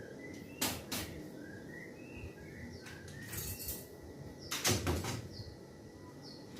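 Small birds chirping in short repeated notes, with a few sharp clicks or knocks: two close together about half a second in, and a louder pair about two-thirds of the way through.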